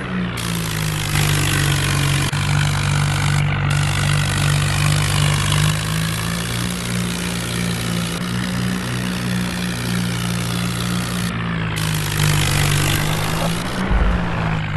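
Tractor's diesel engine running at a steady speed, its note holding nearly constant throughout.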